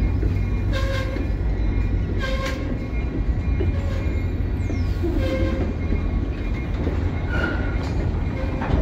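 Freight excursion train arriving behind an EMD SD40 diesel locomotive: a steady low rumble of the diesel and the rolling train, with a locomotive bell ringing over it, one stroke about every second and a half.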